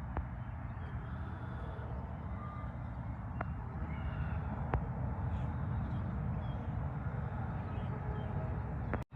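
Steady rumble and tyre noise of heavy interstate highway traffic, with a few faint brief high tones over it. The sound cuts out for a moment near the end.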